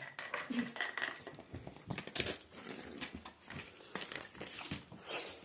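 A cat batting a small object around a hard floor like a hockey puck: irregular clattering knocks and scrapes.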